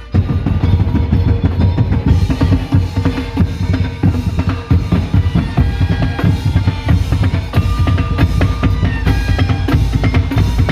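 Madurese ul-daul (tong-tong) percussion ensemble playing loud, dense drumming with a heavy bass drum, with short melodic notes over the beat.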